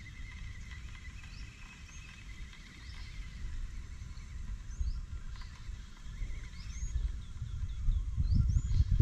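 Birds calling: short whistles that sweep up and fall back, repeated every second or so, with a fainter trilling among them. A low rumble runs underneath and grows louder near the end.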